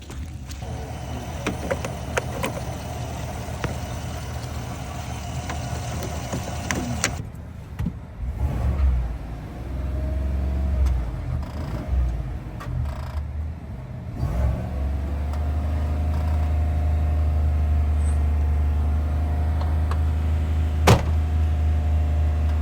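A vehicle's engine running as it is driven, uneven and bumpy in the middle, then settling into a steady low drone for the last several seconds. A single sharp click near the end.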